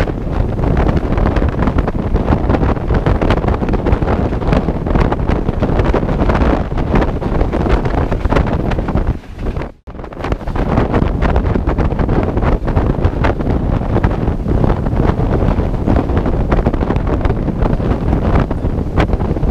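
Heavy wind buffeting the microphone over the steady rushing noise of a moving passenger train. The sound cuts out for a moment about ten seconds in, then resumes.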